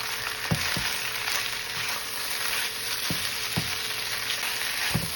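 Chicken fried rice sizzling in a hot pan while being stirred, with the eggs just added, and a few short knocks against the pan.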